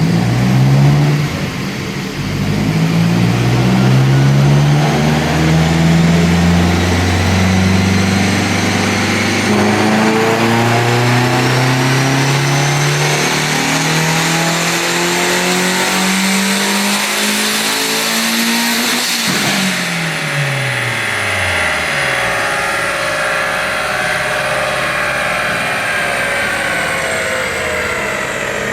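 Big-turbo Hyundai Elantra engine making a full-throttle pull on a chassis dyno: the revs climb steadily for about 19 seconds with a high turbo whine rising alongside, then the throttle closes and the revs and whine wind down. The setup was struggling to build boost on these runs, which the owner traced to a leaking blow-off valve.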